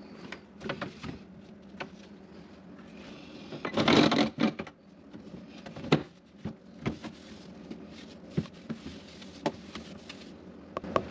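Handling noises: scattered light knocks and clicks, with a louder rustling scrape about four seconds in and a sharp knock about two seconds later.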